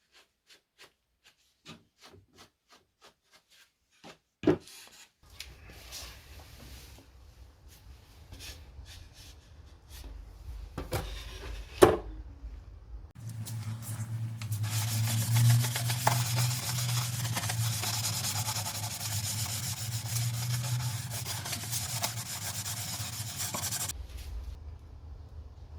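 Sanding and handling of old wooden cabinet parts: light taps and rubbing with a couple of sharp knocks. Then a power sander runs steadily for about ten seconds and cuts off near the end.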